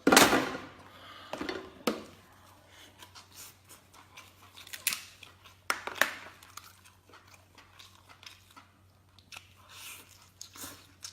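Lobster claws being cracked open and eaten: a loud crunch of shell right at the start, then scattered sharp cracks and chewing sounds.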